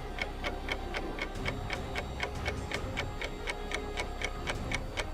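Clock-ticking countdown sound effect, about four even ticks a second, timing the pause for a quiz answer, with faint steady tones under it.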